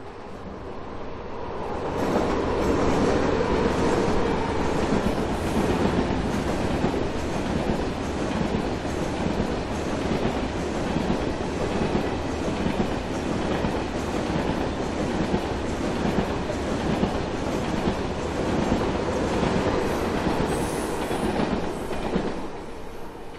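First-generation KTX high-speed train passing close by: a rumble that builds over the first two seconds, holds steady with a regular clickety-clack of wheels over the track, and falls away near the end as the last car goes by.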